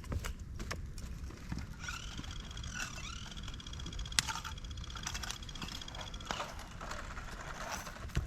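Campfire of dry bamboo and twigs crackling in a fire pit, with irregular sharp pops and one louder crack about four seconds in. A thin whistling tone that bends in pitch sounds over the middle few seconds.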